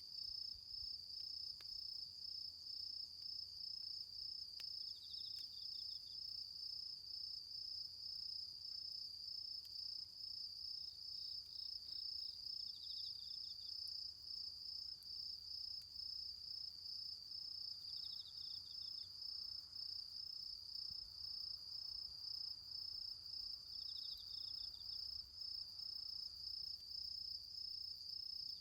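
Autumn insects singing: one gives a steady, fast-pulsed high trill, while a second breaks in with short, slightly lower chirp trains every five or six seconds. A few faint ticks show here and there.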